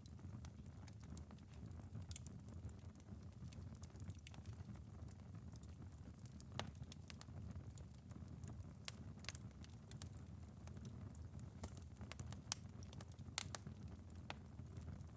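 Wood fire in a fireplace crackling, with irregular sharp pops over a faint, steady low rumble. Light rain patters on a window.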